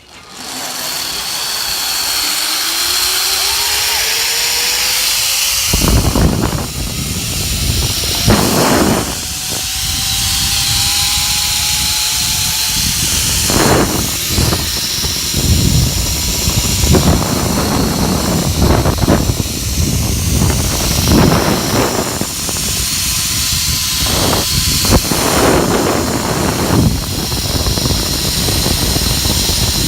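Zip-line trolley running along the cable with a whine that rises as it picks up speed. From about six seconds in, heavy wind rushes and buffets over the microphone as the rider speeds down the line.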